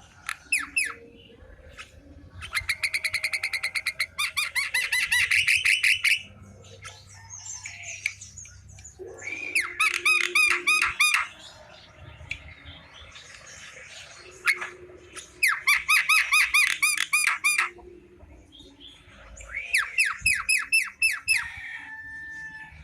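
Javan myna calling in bouts of fast, repeated harsh notes, about five bouts with short pauses between them.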